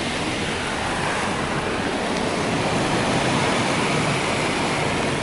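Ryko Softgloss Maxx 5 automatic car wash working over the truck, a steady rush of water and washing heard from inside the cab.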